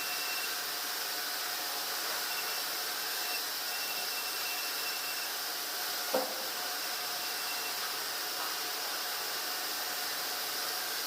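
Steady machinery noise of a sawmill, an even hiss with faint whining tones that come and go, and a single knock about six seconds in.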